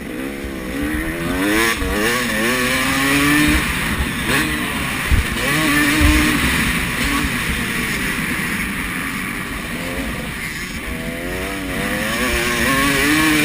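Motocross bikes racing on the track, their engines revving up and falling back again and again as riders accelerate and shift. There are a couple of short dull thumps around the middle.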